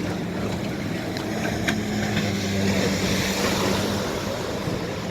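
Jet ski engine running at a steady pitch over the hiss of water and wind; the engine tone fades about four seconds in.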